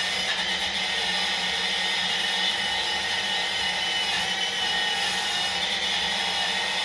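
Power tool fitted with a steel wire brush, running steadily with a constant whine as it scours stone walls.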